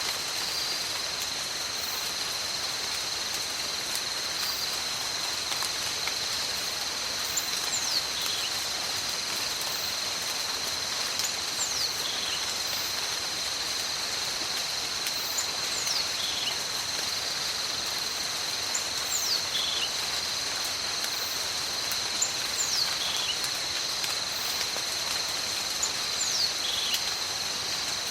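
Steady tropical rainforest rain with a continuous high insect drone. From about a quarter of the way in, a short falling whistle repeats every few seconds.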